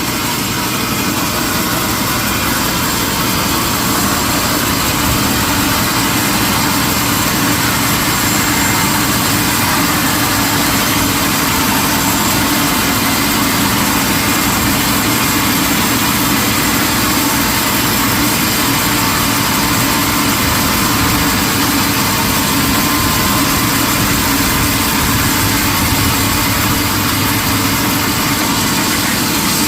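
Heavy sawmill machinery running steadily: a loud, even mechanical drone with steady hums and a high whine running through it.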